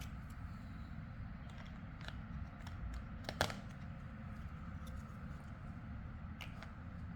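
Plastic building blocks being handled and pressed together: scattered light clicks, with one sharp snap about three and a half seconds in, over a steady low hum.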